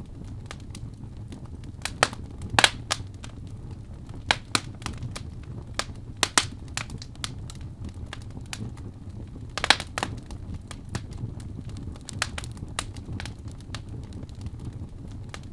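Wood fire burning in a fireplace: a low steady rumble of flames with irregular sharp crackles and pops, a few louder snaps among them.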